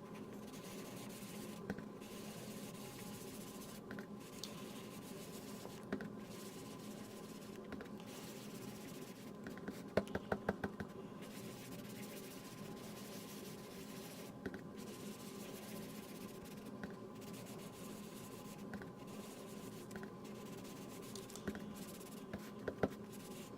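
Sponge dauber rubbing and dabbing ink onto cardstock, faint, with a brief run of quick taps about ten seconds in.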